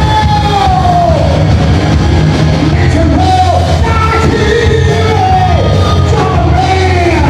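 A live rock band playing, with a lead singer's voice rising and falling in sung phrases over steady heavy bass and drums.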